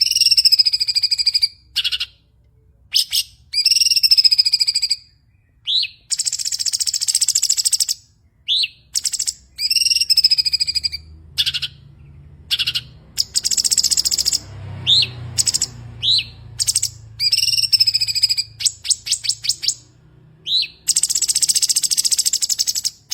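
A cucak cungkok singing loud, full song. It repeats long, harsh, rapid rattling trills, alternated with clear wavering whistles and short rising chirps.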